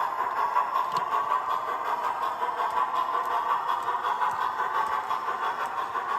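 Dapol 14xx 0-4-2T O gauge model locomotive, converted to three-rail, running on the layout with a steady mechanical running sound.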